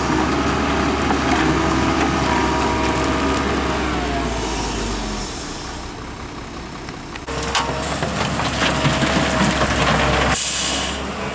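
Diesel engines of heavy earthmoving machinery, excavators and dump trucks, running and working. The sound changes abruptly about seven seconds in, and a short hiss comes near the end.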